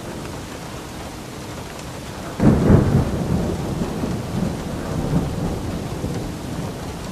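Steady rain falling, with a clap of thunder about two and a half seconds in that breaks suddenly and then rumbles on, slowly fading.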